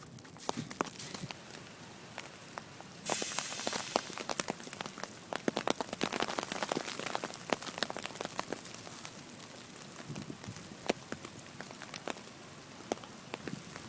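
Falling wet snow pattering irregularly on a nearby surface as a scatter of small ticks, thickest in the middle. A rush of hiss starts suddenly about three seconds in and fades after a couple of seconds.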